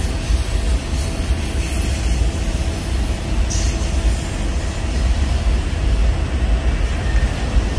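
Union Pacific manifest freight train's boxcars rolling past at steady speed: a continuous rumble of wheels on rail, with a brief high squeal about three and a half seconds in.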